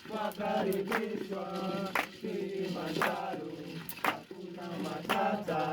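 Group singing a Swahili work song, with regular thuds of a wooden pestle pounding dried coffee beans in a mortar, about one stroke a second.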